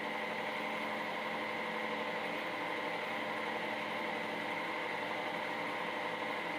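A steady mechanical hum made of several constant tones, with a high whine on top, running without change.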